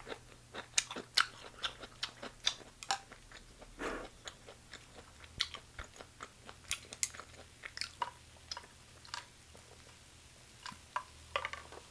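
A person chewing chicken gizzards: crisp crunches and mouth clicks, many in the first four seconds, then fewer and farther apart.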